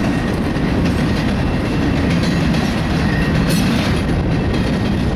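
Intermodal freight cars carrying truck trailers rolling past, a steady rumble of steel wheels on the rails.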